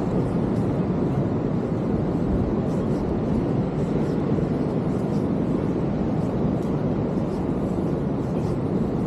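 Steady roar of ocean surf breaking on the beach, with no rise or fall in level.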